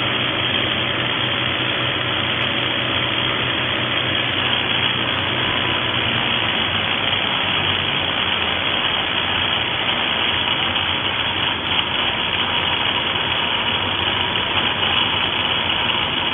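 XCORT XZC06-26 SDS-plus rotary hammer with a 1300 W electric motor, running continuously and steadily.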